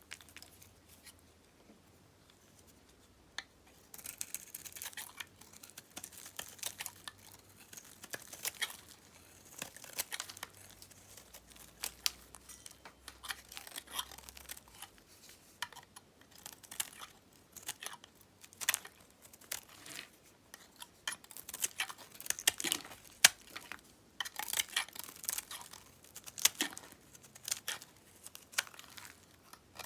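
A knife cutting through dry dyed soap: dense, crisp crackling and crunching that starts about four seconds in and goes on in uneven bursts.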